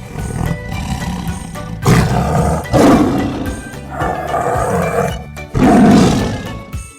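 A big cat roaring several times, the loudest roars about two seconds in and again near the six-second mark, over background music.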